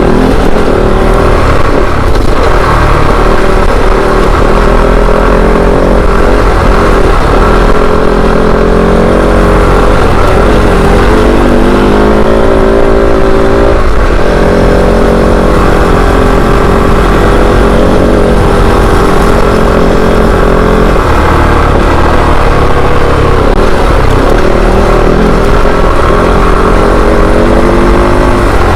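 Kove 450 Rally's single-cylinder four-stroke engine running under load while ridden off-road, revving up and down with throttle changes.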